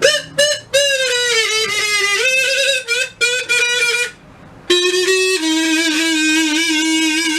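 A short solo melody on a single instrument, violin-like, played in two phrases with wavering held notes and a brief pause in the middle.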